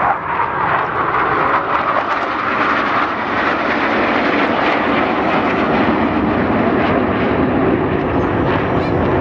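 Jet aircraft flying past with a loud, steady jet-engine roar. Its main pitch sinks lower over the first few seconds as the jets go by.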